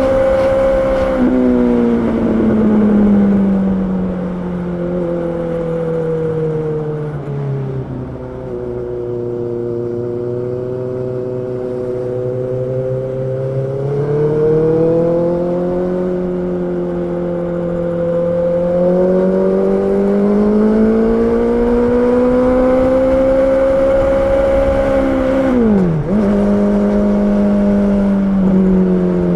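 Honda CB650R's inline-four engine running under way, its pitch falling and rising slowly with the throttle. The pitch drops suddenly about a second in and again near the end, as at a gear change.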